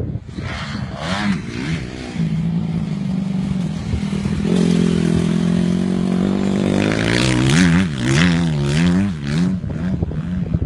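Honda CRF250R's single-cylinder four-stroke engine revving under throttle, its pitch climbing and holding high past the middle of the clip, then rising and falling quickly near the end. Scattered knocks and clatter run through it.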